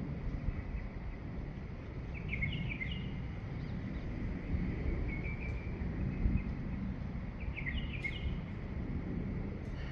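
Birds chirping at dawn: three short bursts of quick chirps, about two seconds in, about five seconds in and near eight seconds, over a steady low rumble of outdoor background noise.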